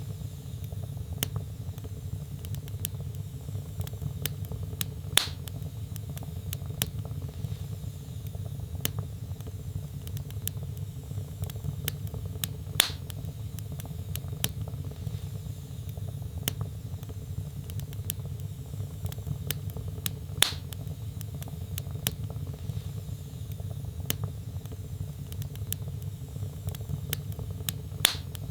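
Wood fire in a fireplace crackling, with many small crackles over a steady low rumble of flames and four louder pops spaced evenly through the stretch.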